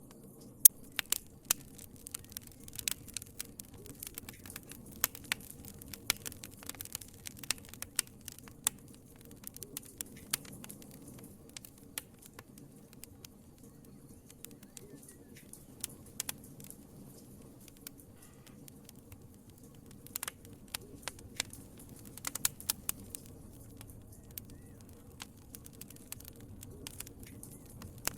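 Wood fire crackling: irregular sharp pops and snaps over a low steady rumble of the flames, with clusters of pops in the first ten seconds and again past the twenty-second mark.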